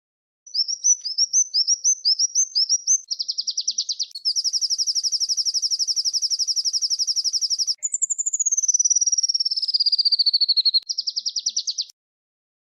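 Small songbird singing high and loud. It opens with a run of quick rising chip notes, then breaks into fast rattling trills: one long and steady, one sliding steadily down in pitch, and a short one near the end. These are the rapid 'ngerol' trill phrases used as masteran song for training cage birds.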